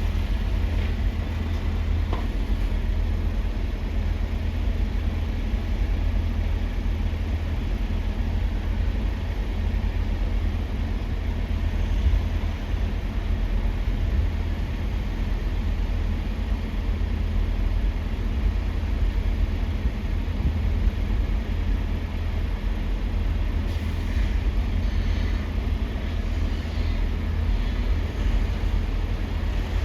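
Steady low rumble of vehicle engines and traffic, with no distinct events.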